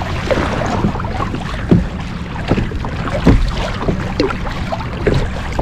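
Australian salmon busting up on the surface as they feed on baitfish: many short, irregular splashes and bubbling, over a steady low rumble of wind on the microphone.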